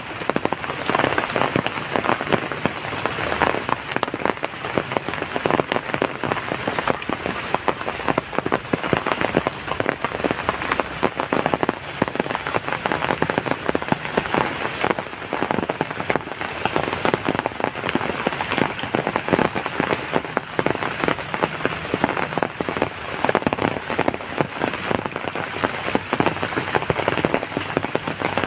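Heavy rain falling steadily: a dense, unbroken hiss made of countless drop impacts, with no let-up.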